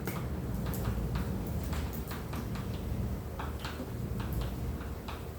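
Writing and drawing on a classroom board: a run of irregular light taps and short scratchy strokes over a steady low room hum.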